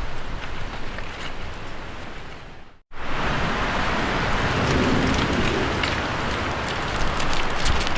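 Steady rain mixed with fireplace crackles, with a low rumble of rolling thunder swelling in the middle. About three seconds in the sound fades away to a brief gap, then cuts back in louder.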